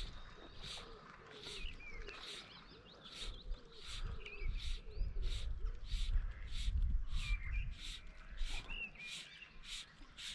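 Small birds chirping in short, scattered calls, with wind rumbling on the microphone. A soft hiss repeats evenly about every half second throughout.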